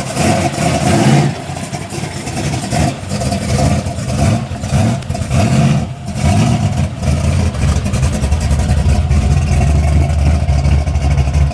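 Drag race car engine running loud, revving unevenly at first, then holding steady from about halfway through.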